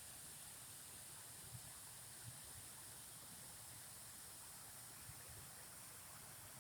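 Near silence: a faint, steady hiss with a couple of soft low bumps.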